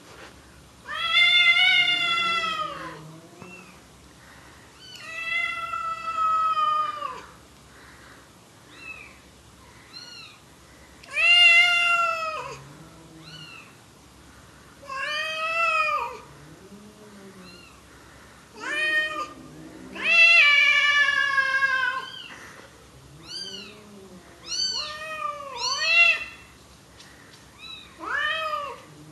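Mother cat meowing loudly and repeatedly: long drawn-out calls that rise and fall in pitch, each lasting a second or two, becoming shorter and quicker in the last few seconds.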